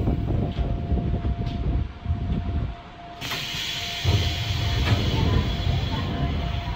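Gakunan Railway electric train heard from inside the cab as it slows to a stop, with a low rumble from the running gear. About three seconds in, a sudden hiss of compressed air starts and keeps going, and a low rumble returns under it.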